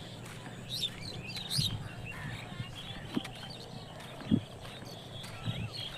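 Small birds chirping in short, quick calls, busiest in the first two seconds, with a couple of brief dull knocks about three and four seconds in.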